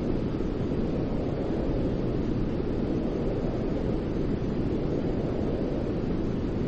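Steady, unchanging white-noise track for lulling a baby to sleep, a deep rushing hiss weighted toward the low end with no rhythm or breaks.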